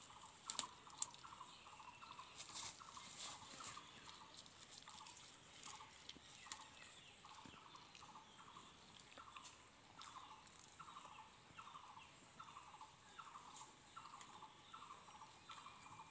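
A bird calls faintly and steadily in the background, a short falling note about twice a second. In the first few seconds there are a few soft crunching clicks from the German Shepherd chewing grass.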